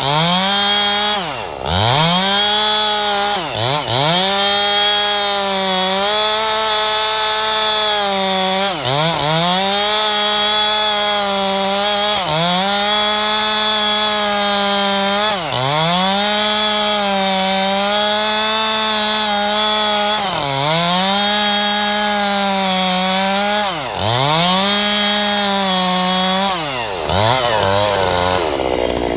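Two-stroke chainsaw at full throttle ripping a log lengthwise, its engine note dipping and recovering every few seconds as the chain bogs in the cut. Near the end the engine slows down.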